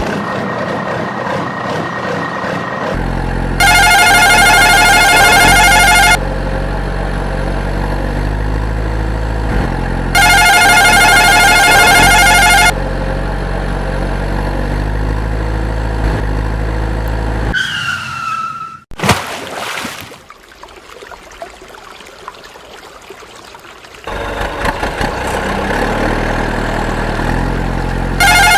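Dubbed vehicle engine sound running steadily, broken twice by a few seconds of a fast electronic trilling tone. A falling whistle-like glide comes about two-thirds in, followed by a few quieter seconds before the engine sound returns.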